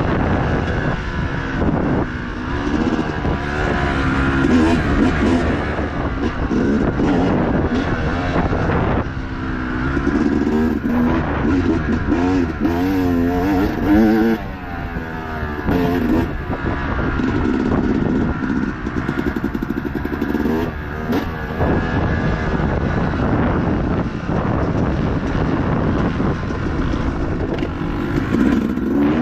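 Dirt bike engine running hard under racing load, its pitch rising and falling again and again as the throttle is worked, with a few short knocks.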